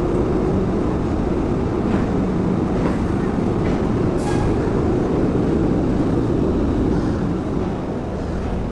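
Diesel locomotive engine running with a steady low rumble, with a few faint clicks.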